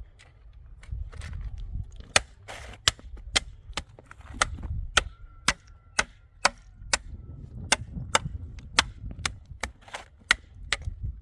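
Repeated sharp knocks or chops, about two a second and somewhat irregular, over a low rumble.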